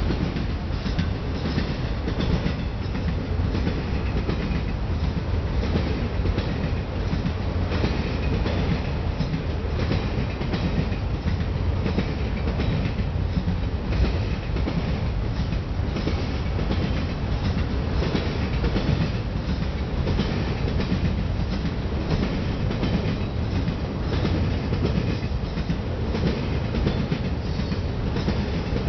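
Freight train of enclosed autorack cars rolling past at steady speed: a continuous rumble with repeated clacks of the wheels over the rail joints.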